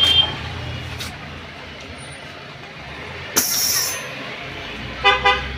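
Steady road-traffic rumble, cut by a short loud hiss of air about three and a half seconds in and a brief vehicle horn toot near the end.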